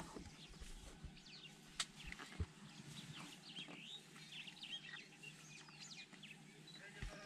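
Birds chirping and calling, many short rising and falling whistles through the whole stretch, with a couple of sharp faint clicks.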